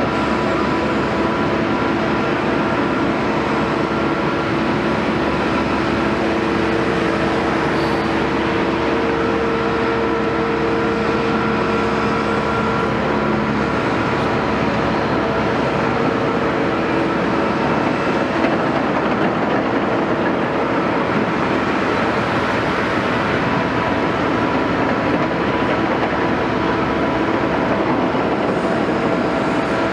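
Caterpillar 329E hydraulic excavator running steadily, its diesel engine and hydraulics making a continuous even noise with several steady tones through it.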